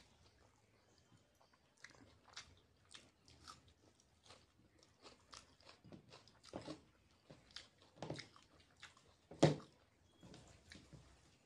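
A person chewing a mouthful of noodles eaten by hand, with many short mouth clicks at an uneven pace, the loudest about nine and a half seconds in.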